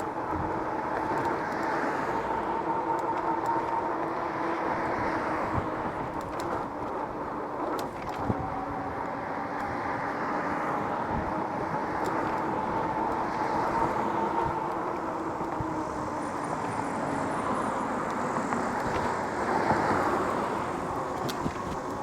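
Lectric e-bike's hub motor whining steadily at cruising speed, with wind and tyre noise under it.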